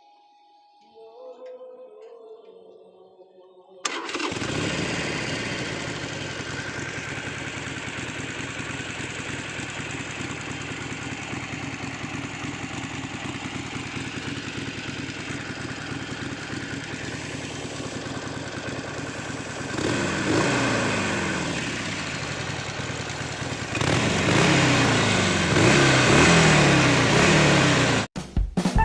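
Harley-Davidson Forty-Eight's air-cooled V-twin on its stock exhaust. It starts suddenly about four seconds in and idles steadily, then is revved up and down twice in the last third before cutting off just before the end.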